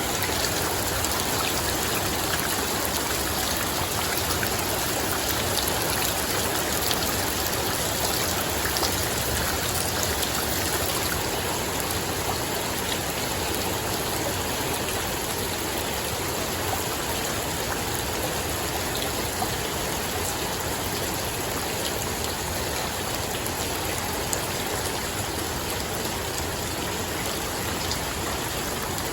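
Steady rain falling, a constant even hiss with a few louder drop hits.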